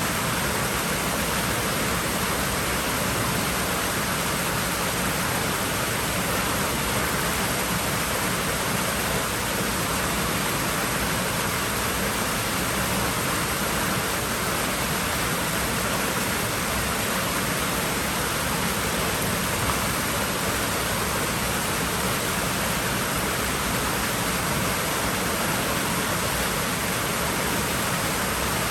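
Water running steadily in a pool, a constant even rushing hiss with no breaks or splashes standing out.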